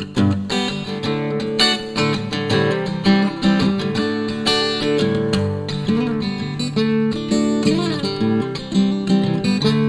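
Instrumental passage of a song: acoustic guitar strummed in a steady rhythm.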